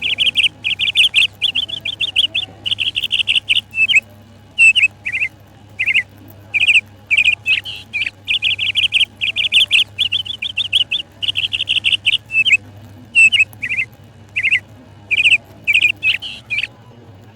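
Budgerigars chirping: bursts of short, fast-trilled calls, one after another with brief pauses between them.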